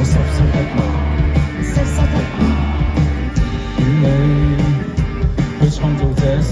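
A band playing a rock song: electric guitar over bass and drums, with a voice singing.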